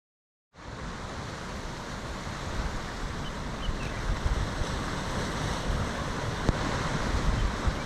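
Wind buffeting the microphone over a steady rushing noise that starts suddenly about half a second in and slowly grows louder.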